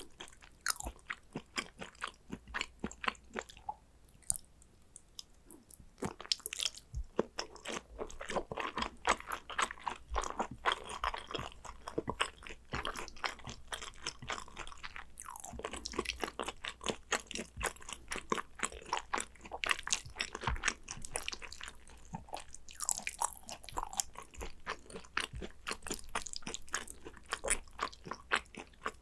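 Close-up eating sounds of a person chewing Korean raw beef tartare (yukhoe), with many sharp crunchy clicks. There is a short lull about four seconds in.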